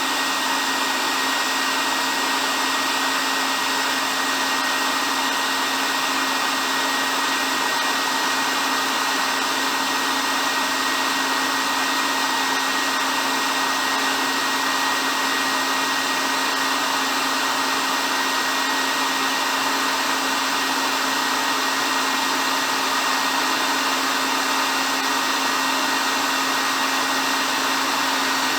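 Hair dryer running steadily: an even, unbroken blowing hiss with a low hum and a thin high whine.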